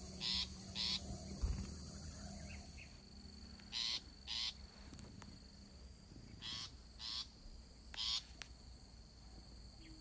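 Short harsh bird calls, mostly in pairs about half a second apart, repeated several times.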